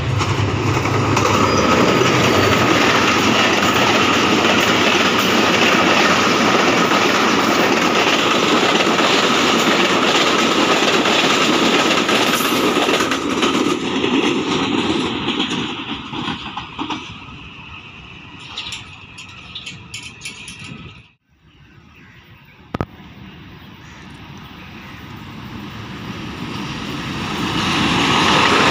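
Diesel-hauled passenger train passing at speed, a steady rumble of wheels on rail that fades away as the train recedes. After a sudden break, a second diesel locomotive with its train approaches and grows steadily louder.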